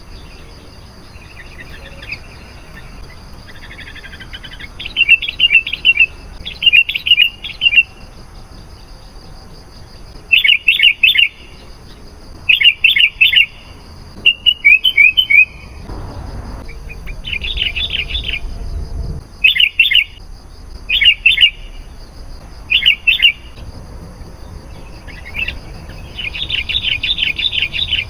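Sooty-headed bulbul (kutilang) singing: short, bright phrases of a few quick notes, repeated every second or two.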